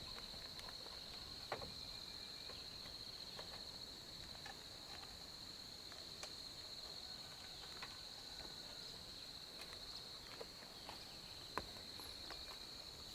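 Insects chirring in one steady, high-pitched outdoor chorus, with a few faint scattered clicks and taps.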